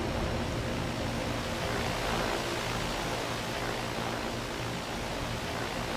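Outdoor central air conditioner condensing unit running: a steady rush of fan air with a low, even hum underneath.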